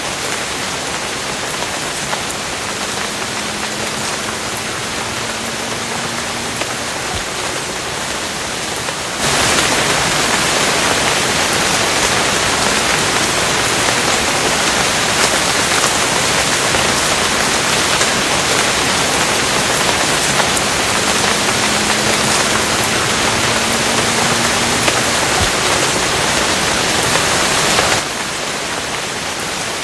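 Steady rain hissing evenly. It turns abruptly louder about nine seconds in and drops back to the softer level shortly before the end.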